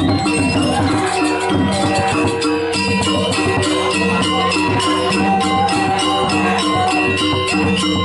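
Balinese gamelan music: metallophones and gongs struck in a quick, even, interlocking rhythm that becomes steadier about three seconds in.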